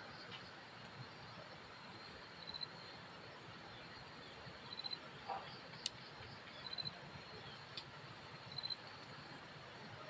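Faint insect chirping: short high trills of a few quick pulses, repeating about every two seconds over a steady high hiss. A single sharp click comes a little before the six-second mark.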